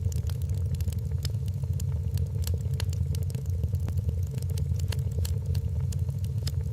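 Wood fire burning in a fireplace: frequent sharp crackles and pops, irregularly spaced, over a steady low rumble.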